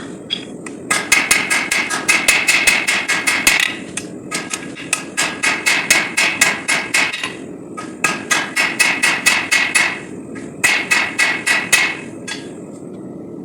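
Hand hammer striking a hot bar of 5160 steel on an anvil while forging a knife blade. The blows come in four quick runs of about five a second, each with a short metallic ring, with brief pauses between runs.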